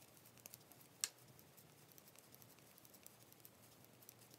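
Near silence with faint clicks of knitting needles, one sharper click about a second in.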